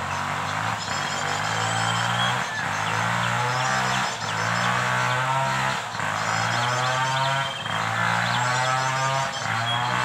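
Small bird chirps repeating again and again, over a low honk-like tone that breaks off and starts again about every second and a half.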